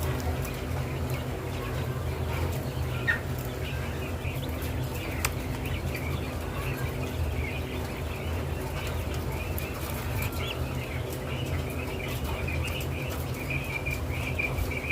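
Birds chirping and calling over a steady low hum, the calls growing busier near the end, with a sharp click about five seconds in.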